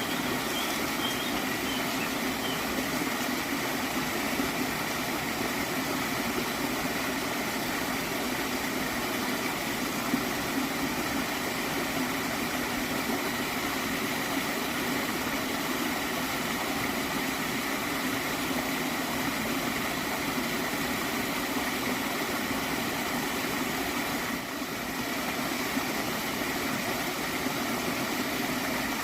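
A stream of water flowing steadily and gurgling, with a brief slight dip in level about 24 seconds in.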